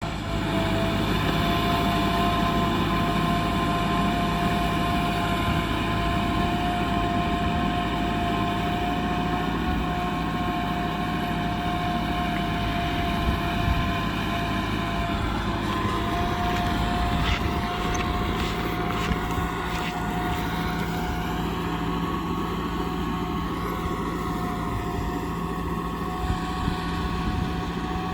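Kubota M6040 tractor's diesel engine running steadily under work, with a steady high whine over the engine note.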